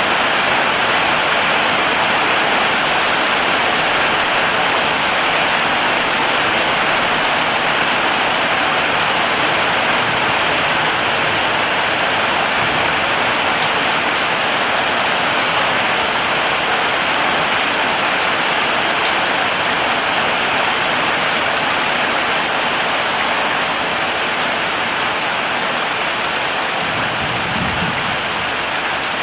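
Heavy rain falling steadily, a dense even hiss, with a brief low rumble near the end.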